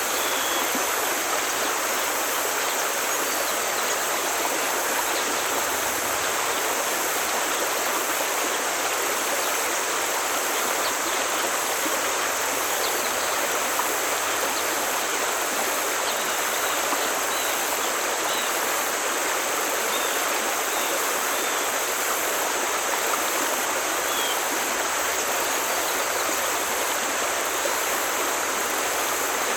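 Forest stream flowing steadily over rocks, an even rushing of water, with a few faint short bird chirps here and there.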